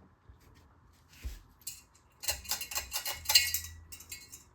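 A single click about a second in, then a couple of seconds of rapid light metallic clinking and rattling over a faint low hum.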